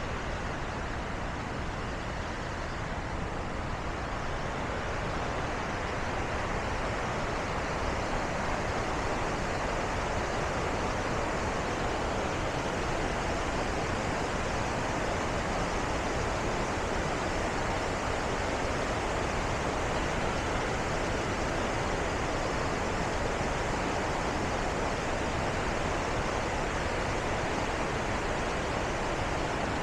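Steady rush of water pouring over Bow Falls on the Bow River, growing a little louder a few seconds in, then holding steady.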